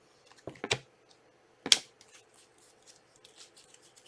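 Trading cards and packs being handled on a table: three sharp clicks or snaps in the first two seconds, then faint scattered ticks.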